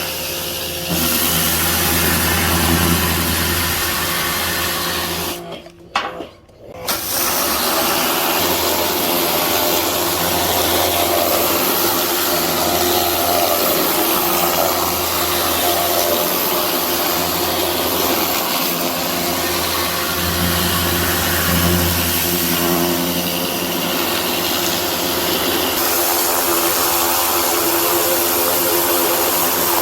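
Pressure washer running and spraying: a steady motor-and-pump hum under a broad hiss of water jet. The sound cuts out briefly about six seconds in, then picks up again.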